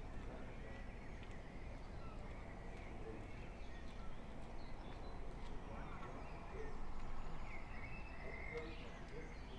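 Several birds chirping and singing in an early-morning dawn chorus over a steady low background rumble, which swells briefly about seven seconds in.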